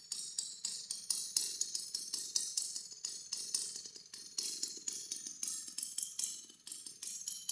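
Old Echo CS-100 two-stroke chainsaw idling, a fast, uneven clatter of clicks.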